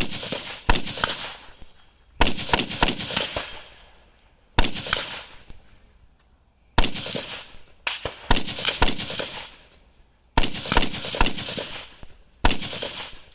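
Carbine rifle firing single shots, about eight in all, spaced unevenly one to two and a half seconds apart, each one echoing and fading over a second or more.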